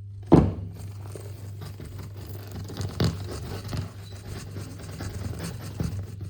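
Hard plaster scenery on a model railway layout being knocked and scraped apart by hand to expose the track pins: a sharp knock just after the start, then steady scraping and crunching, with another knock about three seconds in, over a steady low hum.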